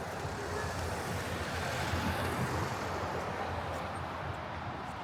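City street traffic: a steady hum of cars and engines, swelling a little about halfway through as a vehicle goes by.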